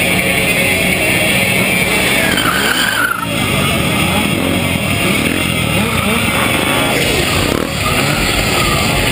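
Stunt motorcycles revving hard with tyres skidding and squealing, the engine pitch rising and falling, with two brief drops about three seconds in and near the end.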